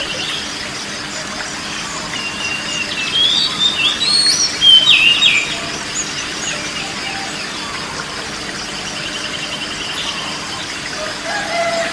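Oriental magpie-robin (kacer) singing: varied clear whistled phrases that slide and step up and down in the first half, then a buzzy, rattling trill held on one pitch for a few seconds.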